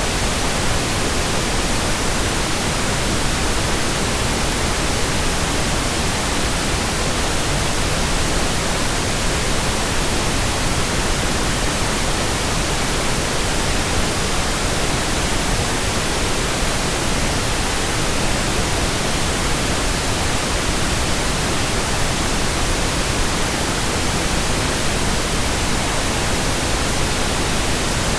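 Steady, unchanging synthetic white noise, an even hiss across the whole range from low rumble to high treble.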